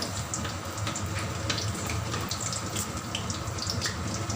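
Spices and seasoning sautéing in hot oil in a pan: a steady sizzle with frequent small crackles and pops, over a steady low hum.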